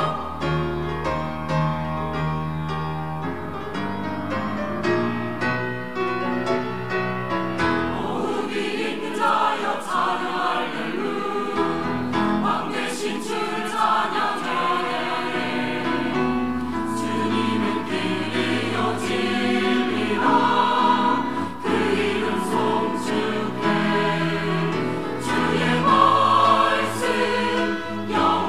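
Church choir singing an anthem in parts, with instrumental accompaniment.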